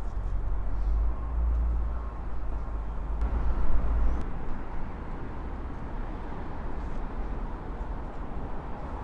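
Strong wind buffeting the microphone in storm-force gusts, a heavy low rumble that eases about four seconds in.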